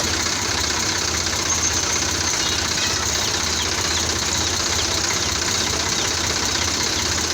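Sonalika tractor's diesel engine running steadily with a low, even throb.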